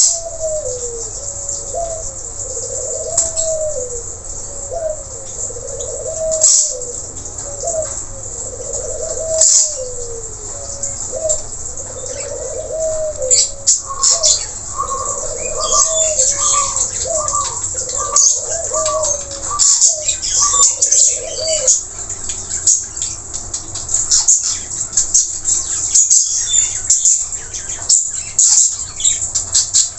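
Nuri tanau (blue-rumped parrot) calling with rapid, high-pitched chirps and shrill notes throughout. For about the first twenty seconds a low, rising-and-falling phrase repeats over and over beneath them, and from about halfway a run of short, evenly spaced notes joins in for several seconds.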